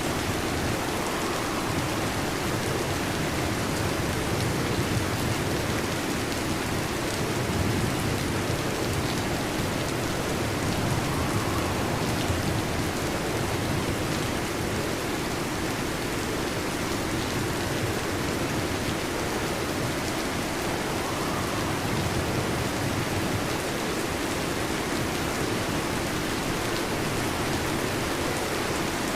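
Steady heavy rain, an even hiss of countless drops. Faint low rumbles of distant thunder swell up a couple of times.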